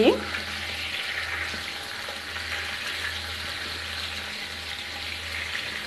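Eggplant slices sizzling steadily in hot oil in a frying pan.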